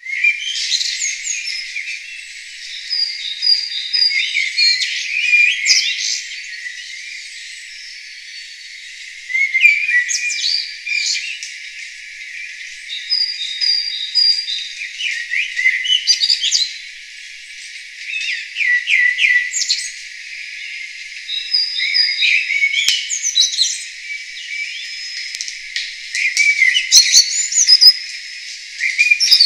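Songbirds singing, several chirping and whistling phrases coming in bouts of a few seconds with short lulls between.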